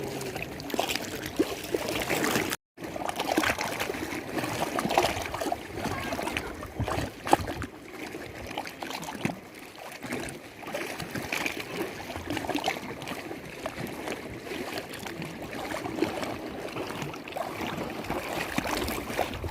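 Lake water lapping and trickling, with many small splashes and gurgles. The sound cuts out completely for a moment about two and a half seconds in.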